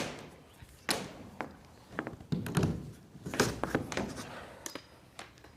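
Old cover strips being pried and pulled off a fibre-cement sheet wall: a series of sharp knocks about a second apart, with rougher scraping and cracking stretches in the middle.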